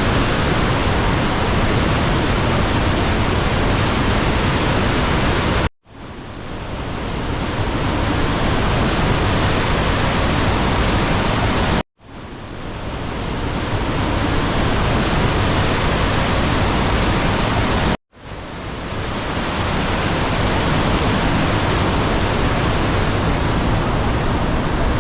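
Loud, steady roar of a large waterfall, the Rhine Falls, with churning water filling every pitch from deep rumble to hiss. It cuts out abruptly three times, about a quarter, half and three-quarters of the way through, and each time fades back in over a second or two.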